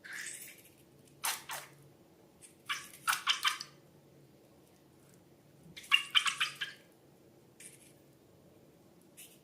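Wet, sticky slime squelching and dripping in short crackly bursts, about six of them, the loudest around three and six seconds in.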